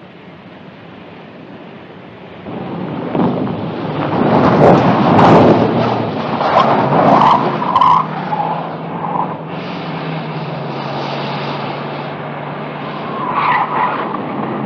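Speeding cars with engines revving hard and tyres squealing. It gets loud about two and a half seconds in, with several squeals. A steadier engine drone follows, then another tyre squeal near the end.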